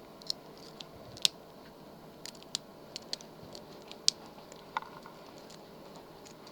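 Faint, irregular small metallic clicks and ticks of a lock pick and tension wrench working the pin stack inside a padlock, about a dozen over a few seconds.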